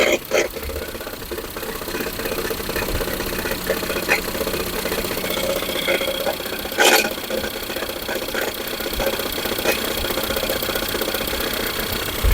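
Ford Fusion 2.0 EcoBoost engine idling with a knocking noise and occasional sharp knocks, the loudest about seven seconds in. The mechanic traces the noise to a loose, broken flywheel ring gear rather than to the engine itself.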